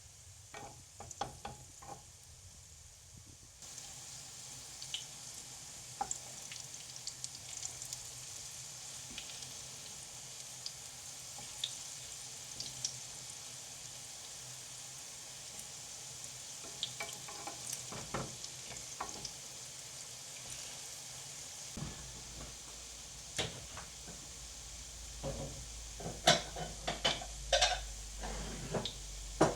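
Pumpkin pancakes frying in hot oil in a pan: a steady sizzle with small crackles that starts suddenly about four seconds in. A few light clicks come before it, and a run of sharp utensil knocks and clinks comes near the end.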